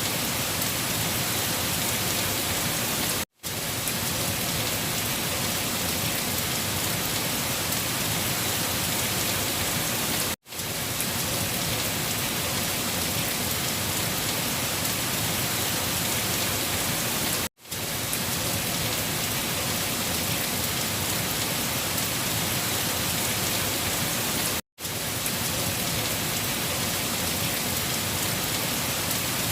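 Steady, dense rain falling on surfaces, an even hiss with no thunder. It cuts to silence for a split second about every seven seconds, four times, where the looped recording restarts.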